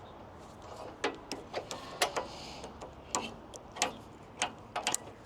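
Irregular light clicks and clinks of metal parts being handled, about a dozen spread unevenly over five seconds.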